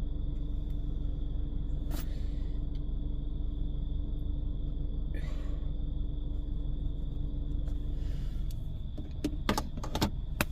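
Steady low hum of a car idling, heard from inside the cabin, with a few short clicks or knocks, two of them close together near the end.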